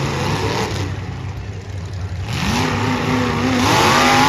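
Demolition derby cars' engines revving, the pitch rising and falling as they accelerate and back off, loudest near the end with a rising rev.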